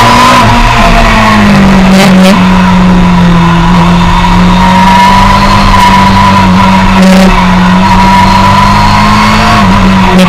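Suzuki sport motorcycle's engine running at steady high revs in second gear, heard from onboard. The pitch eases slightly about a second in, then holds steady.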